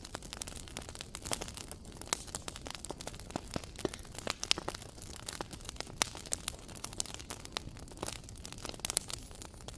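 Fire crackling in a fireplace: irregular sharp pops and snaps, often several a second, over a low steady rustle of the flames.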